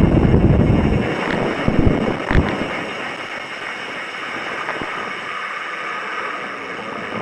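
Wind buffeting an action-camera microphone as a mountain bike rides down a rocky trail, with a few sharp knocks from the bike over rocks in the first couple of seconds. After about three seconds it eases to a softer, steady hiss.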